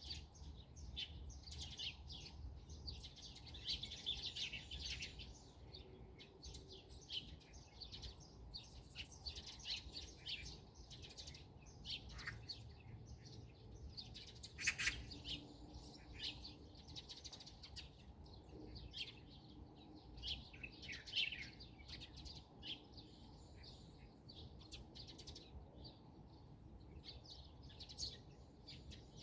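Several wild birds chirping and singing at once, many short high calls and trills overlapping one another.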